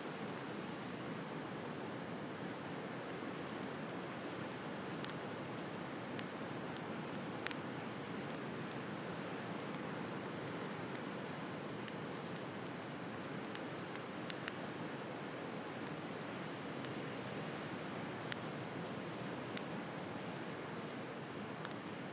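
Wood bonfire crackling, with scattered sharp pops and snaps every second or few, over a steady wash of sea waves.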